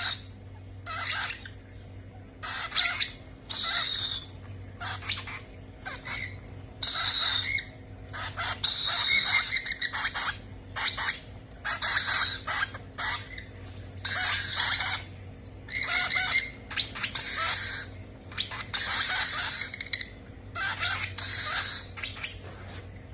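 Baby parrots' begging calls while being fed: harsh squawking calls repeated about once a second, each lasting up to about a second.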